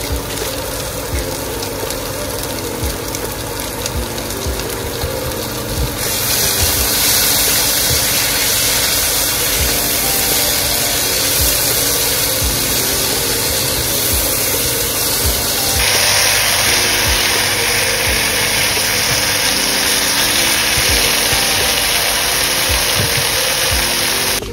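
Chicken in green chili sambal sizzling in a frying pan, a steady hiss that gets louder about six seconds in. Soft background music with a simple stepping melody plays underneath.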